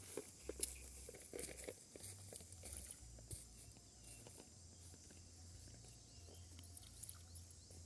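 Faint scattered clicks and rustles of handling, busiest in the first three seconds or so, over a low steady hum; otherwise close to silence.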